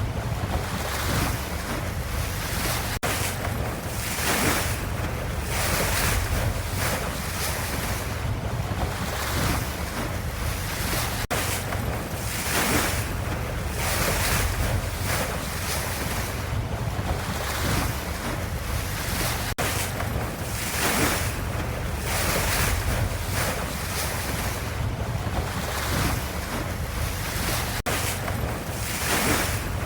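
Ocean waves washing and surging in swells every couple of seconds over a steady low rumble.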